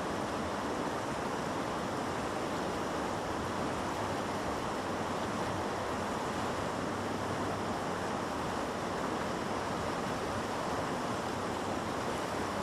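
Steady rushing of river water flowing fast through a rapid, an even, unbroken noise.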